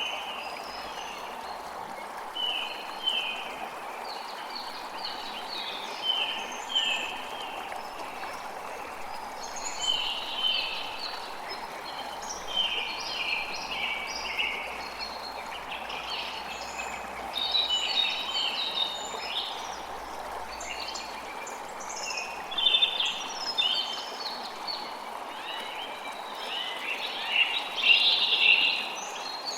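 Creek water running steadily, with many birds singing over it in quick short chirps that grow busier and louder toward the end.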